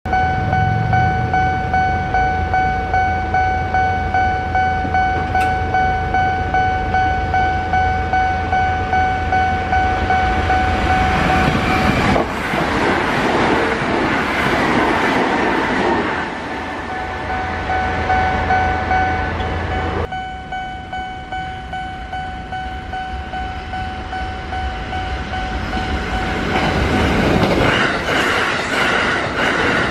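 Japanese level crossing bells ringing steadily, about one and a half strikes a second. About twelve seconds in, a Sanyo Electric Railway limited express train passes at high speed with a loud roar of traction motors and wheels on rail. After a sudden change the bells ring again, and near the end another Sanyo train rushes through.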